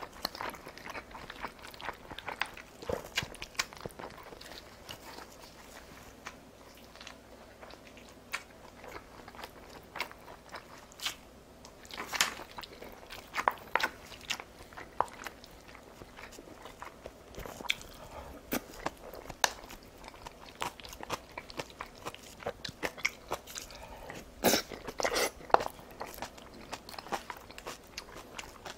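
Close-miked chewing and biting of food: many short crunches and wet mouth clicks, louder in clusters about twelve seconds in and again near twenty-five seconds.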